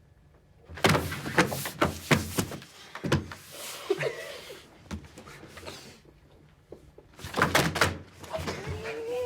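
Two clusters of sharp knocks and thuds, the second coming about six seconds after the first, with scattered softer knocks between them and a short wavering tone near the end.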